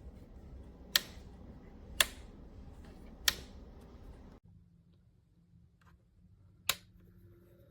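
Four sharp clicks: three about a second apart, then one more after a pause of several seconds. They sit over a low background noise that drops out abruptly about halfway through.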